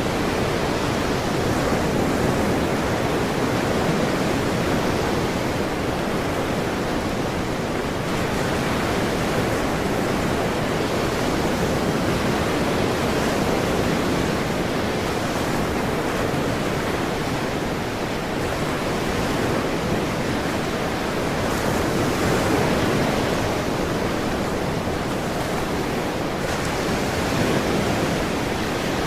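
Ocean waves breaking and washing on a shore, a steady roar of surf that swells and eases gently.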